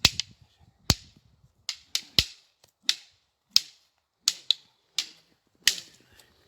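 Wooden fighting sticks clacking together in sparring: about a dozen sharp strikes at an irregular pace, some coming in quick pairs.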